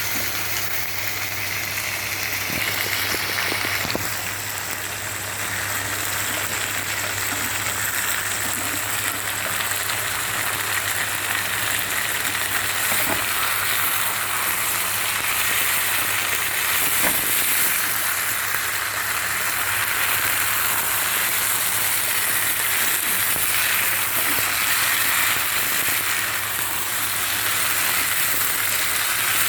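Mutton meatballs frying in oil and gravy in a pan, with a steady sizzle as the gravy cooks down and thickens. A low steady hum runs underneath.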